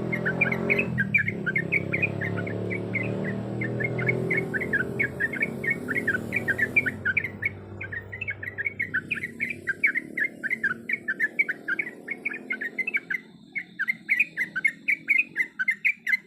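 Yellow-vented bulbul (trucuk) song: a rapid, unbroken chatter of short bubbly notes, several a second. A low background rumble fades out about two-thirds of the way through.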